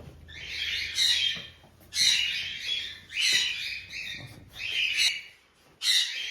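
Parrots squawking: about five harsh, rasping calls in quick succession.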